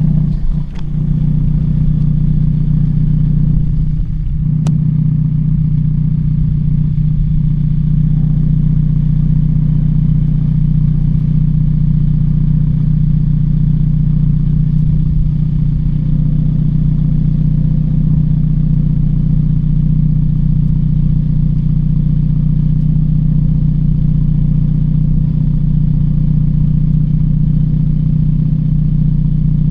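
A car engine running at a steady pitch, a constant low drone that neither rises nor falls, with a couple of faint clicks in the first few seconds.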